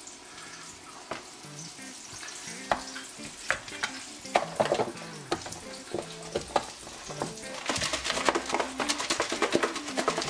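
Bone-in pork chop frying in hot oil: a steady sizzle with scattered crackles and pops, growing denser and louder about eight seconds in.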